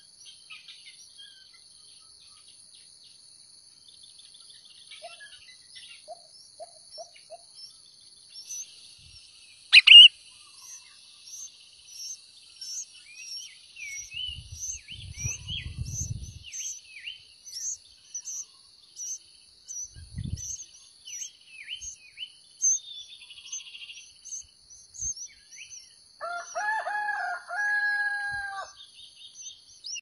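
Sooty-headed bulbul nestlings begging with rapid, short, high cheeps as the parent feeds them, over a steady high insect buzz, with one loud sharp chirp about ten seconds in. Near the end a rooster crows once in the background.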